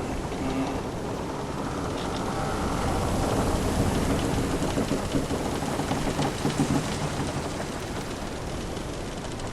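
Sea noise washing against a wooden sailing ship, swelling louder in the middle, with the ship's timbers creaking low underneath.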